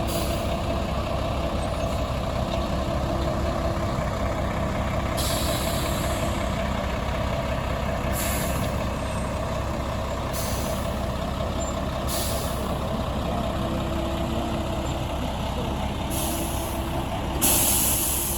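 Heavy truck engine running steadily, with short hisses of air from its air brakes several times. The loudest hiss comes near the end.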